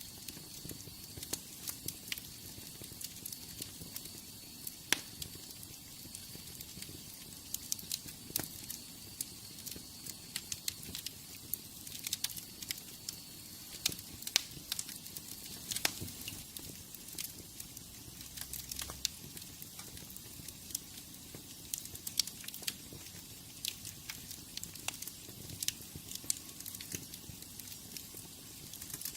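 Wood fire crackling in a fireplace: a steady hiss with many irregular sharp pops and snaps.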